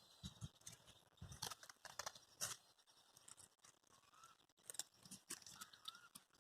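Near silence broken by faint, scattered rustling and clicking, with a faint short rising chirp about four seconds in and another near the end.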